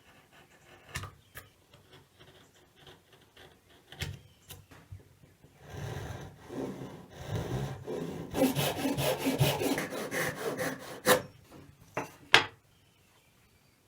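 Hand tool scraping back and forth on a wooden board in quick, short strokes, as the layout lines for the notches are scored into the wood. A few sharp knocks of tools or wood being set down follow near the end, the loudest sound.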